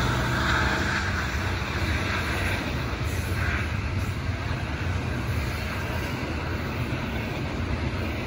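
Double-stack intermodal well cars rolling past on the rails: a steady rumble of wheels on track, easing slightly in level over the first few seconds.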